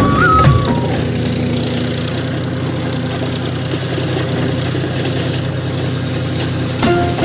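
Tractor engine running steadily, with the end of a song in the first second and music starting again near the end.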